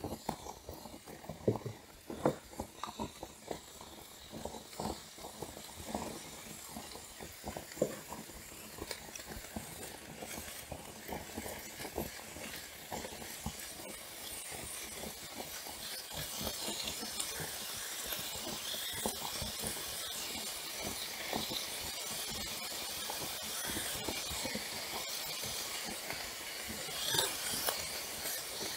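Close-miked eating sounds: chewing with many short wet clicks and smacks. A steady hiss rises about halfway through and stays to the end.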